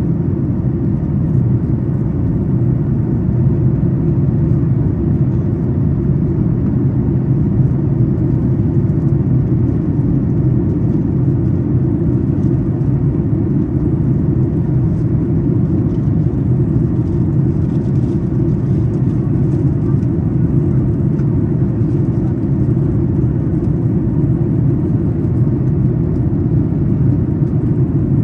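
Steady low rumble of a Boeing 737 MAX 8's engines and airflow heard inside the economy cabin during the climb, unchanging throughout.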